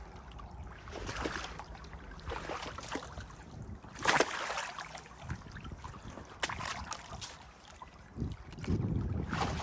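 Footsteps wading through shallow floodwater, with irregular splashes and sloshing as the legs move through the water; a louder splash about four seconds in. Some wind on the microphone.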